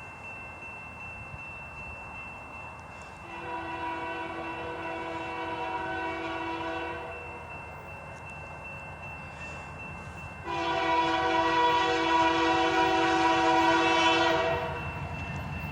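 Diesel locomotive air horn sounding two long chord blasts, the second louder, over the steady low rumble of the approaching train.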